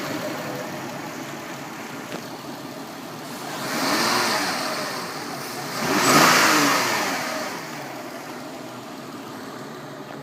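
Peugeot 407 engine idling, revved twice: a rev about four seconds in and a louder one about two seconds later, each rising and falling back to idle.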